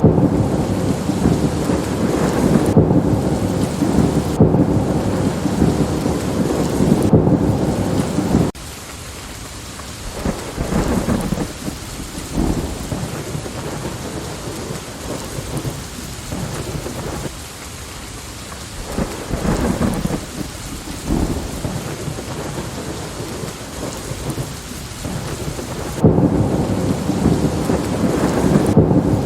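Steady rain with thunder. A heavy, continuous thunder rumble cuts off abruptly about a third of the way in, leaving rain with scattered crackles of thunder, and the rumble cuts back in abruptly near the end.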